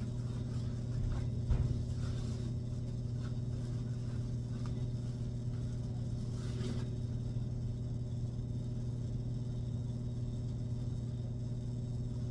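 Steady low hum of a car engine running, heard from inside the car, with a brief knock about a second and a half in.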